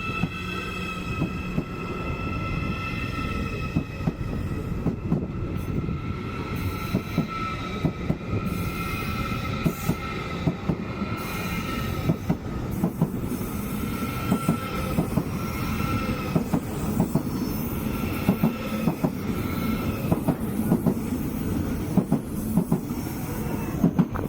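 Train wheels squealing against the rails as a train rolls slowly through the station, with a steady high-pitched squeal that swells and fades. Irregular clacks of the wheels over rail joints run over a low rolling rumble.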